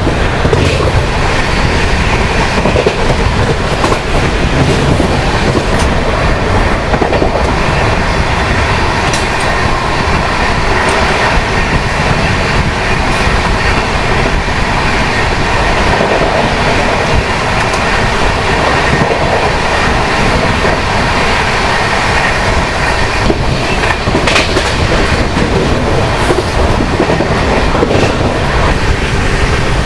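Express passenger train running at speed, with a steady loud rumble and the wheels clicking over rail joints now and then.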